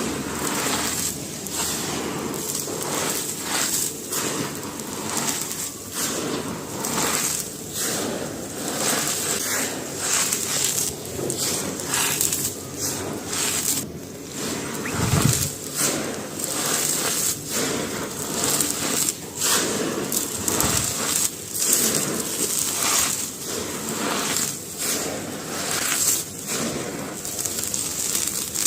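Dry charcoal stones and soft cylinders crunched and crumbled by hand: a steady run of irregular dry crunches and crackles, with one heavier crunch about halfway.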